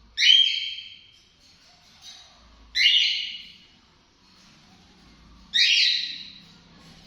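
Sun conure calling: three loud, high-pitched calls about two and a half seconds apart, each starting sharply and trailing off.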